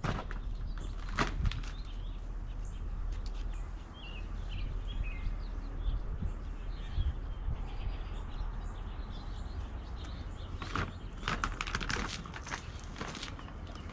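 Outdoor ambience with wind rumbling on the microphone and small birds chirping a few times about four to five seconds in. Scattered scuffs and taps come about a second in and in a cluster near the end.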